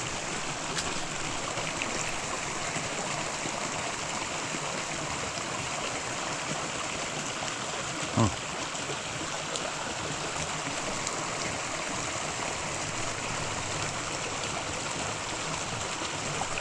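Small creek water running steadily over rocks, with one short, louder pitched sound about halfway through.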